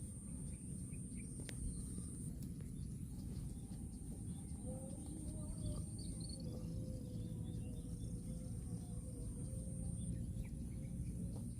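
Rural outdoor ambience: a steady high-pitched insect drone with a few scattered bird chirps over a low rumbling noise.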